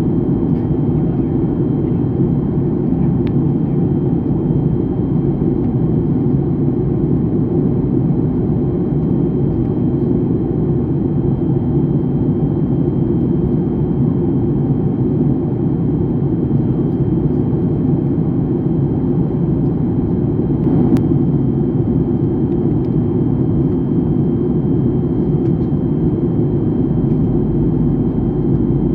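Airliner cabin noise in flight: a steady low rumble of engines and airflow, with a faint steady high-pitched tone above it. A single brief click about two-thirds of the way through.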